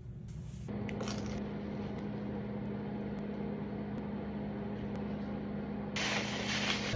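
A steady machine hum with a low drone starts about a second in and runs on. A short burst of hiss comes near the end.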